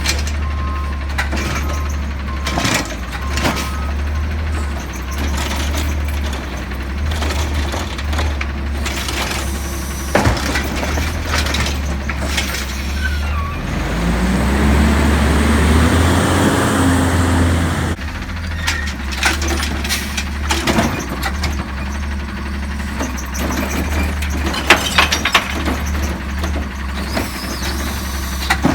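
Recycling truck's diesel engine running, with repeated clatter and crashes of recyclables, glass among them, falling into the hopper. About halfway through, the engine revs up for a few seconds with a rising tone, then drops back.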